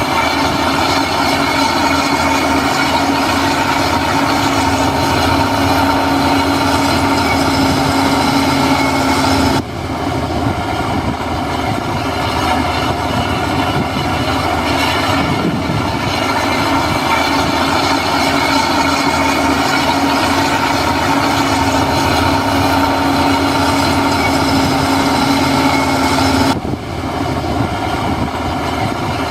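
Heavy construction machinery running: a steady diesel drone with a dense rattling clatter, broken by two sudden cuts, about ten seconds in and near the end.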